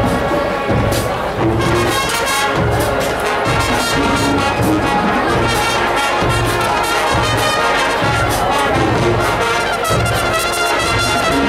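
High school marching band playing: massed brass (trombones and trumpets) over a steady drum beat.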